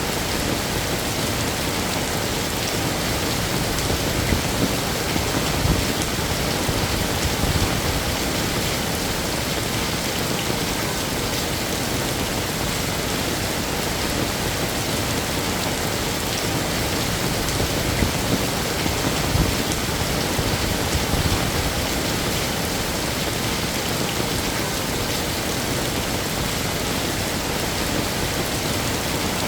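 Heavy rain falling in a steady, dense hiss, with a few brief low swells a few seconds in and again a little past the middle.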